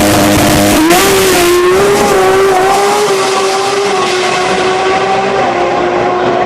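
A tuned car engine running loud at high, steady revs. Its pitch climbs a little about a second in and then holds.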